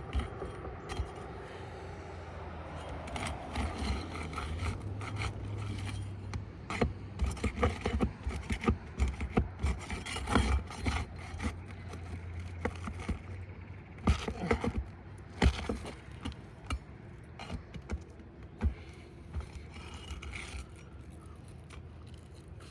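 Asphalt roof shingle tabs being pried up and unsealed with a hand tool: steady scraping and rubbing, with a run of sharp clicks and knocks in the middle as the tabs break free of their seal strip.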